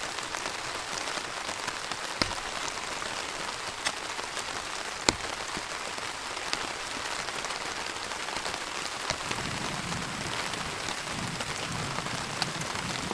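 Heavy rain falling steadily, with a few sharper single drops striking close by.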